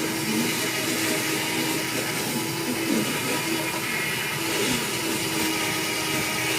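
Steady, even whir of a small electric motor or blower running without a break.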